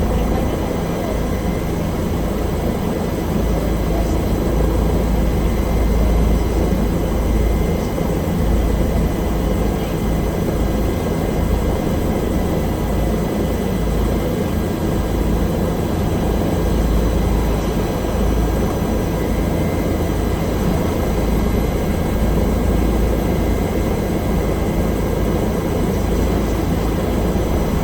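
Bell helicopter running steadily: a heavy low rotor drone with thin, steady whining tones above it.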